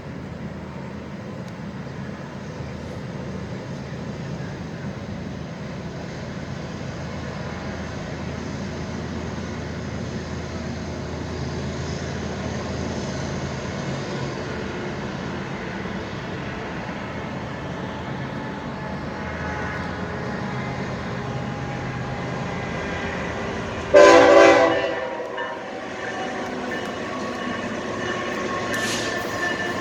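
A train rolling past on the tracks below, its rumble building steadily. Near the end the locomotive sounds one short, loud horn blast.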